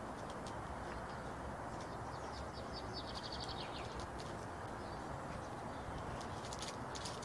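Outdoor ambience with a steady low hum, and a small bird chirping a quick run of high notes about three seconds in, among a few scattered short ticks.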